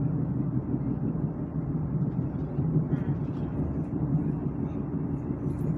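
Steady low running noise of a Taiwan Railways Chu-Kuang express coach in motion, heard from inside the passenger car.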